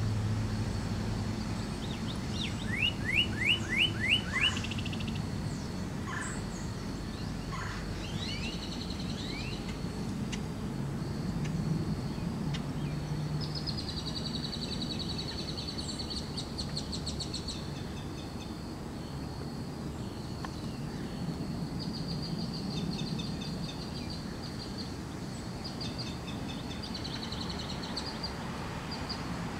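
Birds singing outdoors: a loud run of about six quick falling notes a few seconds in, then fast high trills later on, over a low steady background hum.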